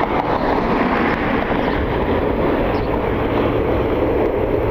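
Jet aircraft engine noise: a steady rushing rumble.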